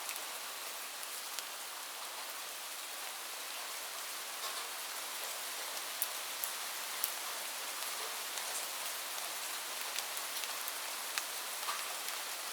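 Steady rain, an even hiss with scattered sharp ticks of individual drops striking a surface.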